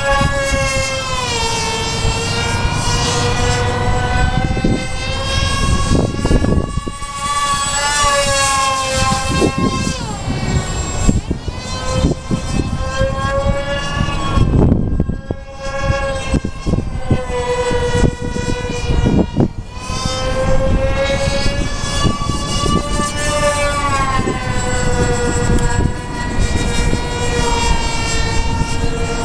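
Twin 2800KV brushless electric motors driving pusher propellers on an RC delta-wing plane in flight, a high whine whose pitch rises and falls with throttle and the plane's passes. The whine drops away briefly about halfway through, then picks up again.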